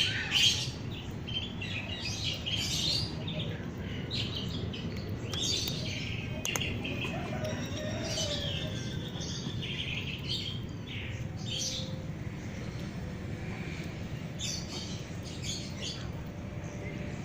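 Small birds chirping in short, scattered high calls over a steady low background noise.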